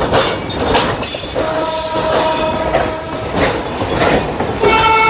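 Passenger train rolling along the track: a constant rumble with irregular wheel clatter and intermittent steel-on-steel wheel squeal. A train horn starts sounding near the end.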